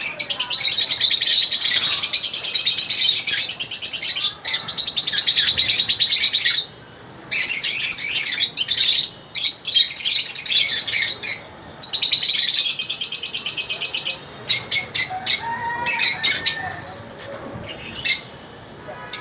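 A flock of lovebirds in a colony aviary chattering in rapid, high chirps, broken by a few short pauses and growing quieter near the end.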